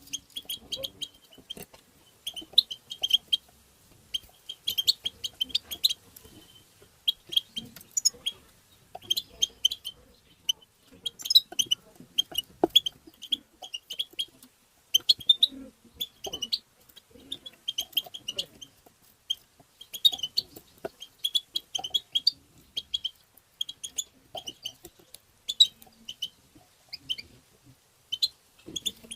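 European goldfinch giving its rapid twittering call notes in short, repeated bursts of bright, high chirps.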